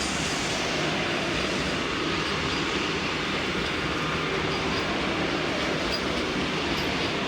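Vande Bharat Express electric trainset running through the station at speed without stopping: a steady rush of wheels on rails.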